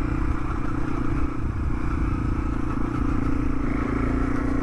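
Yamaha TW200's single-cylinder four-stroke engine running at a steady speed while the bike rides along a dirt road, with a low rumble underneath the engine note.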